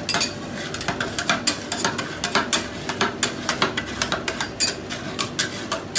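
Two metal scrapers scraping and tapping on a chilled ice pan, gathering freezing slush into a pile: quick, irregular clacks and scrapes, several a second.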